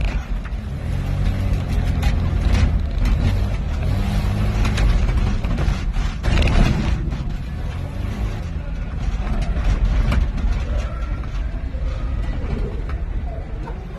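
1989 Geo Tracker's four-cylinder engine running hard under changing throttle, with many sharp knocks and bangs as it is driven over rough ground.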